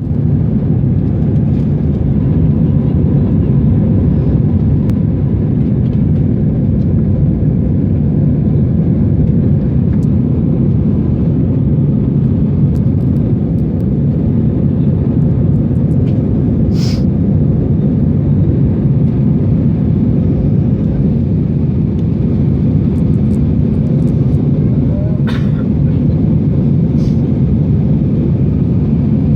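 Steady low rumble of an aeroplane, unchanging throughout, with a couple of faint brief clicks.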